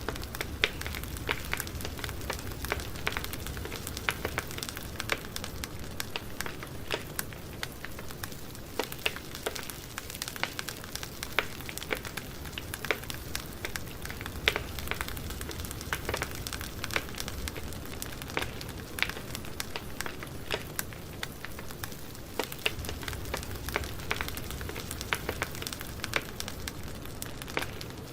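Campfire burning: a steady low rumble and hiss with frequent sharp, irregular crackles and pops of burning wood.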